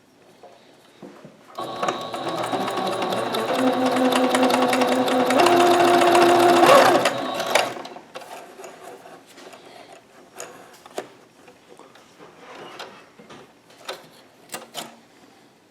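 Singer Ingenuity sewing machine stitching, its needle ticking fast over the motor's steady whine, getting louder and then stopping after about six seconds. It is sewing normally again with its hook timing reset. A few scattered clicks from handling the machine follow.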